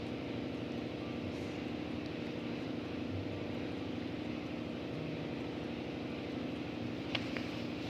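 Steady low mechanical hum in the background, with a couple of faint clicks near the end.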